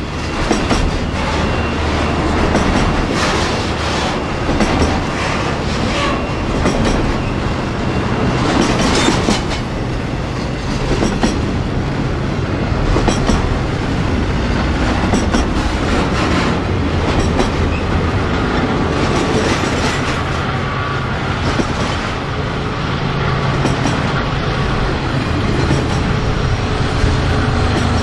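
Freight train rolling past, its wheels clicking steadily over the rail joints.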